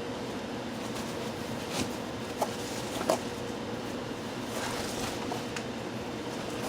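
Handling and unpacking of a cardboard box stuffed with cloth shop towels: soft rustling with a few short knocks about two to three seconds in, over a steady background hum.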